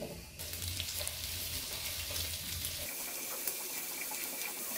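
Diced potatoes frying in hot oil in a pan: a steady sizzle.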